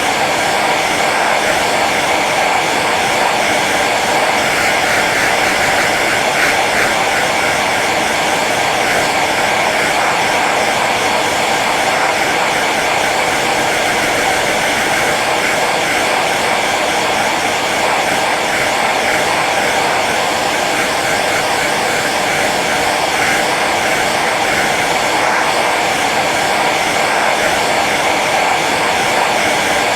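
Hair dryer running steadily on its low setting: a constant airy rush of the blower with a faint motor hum.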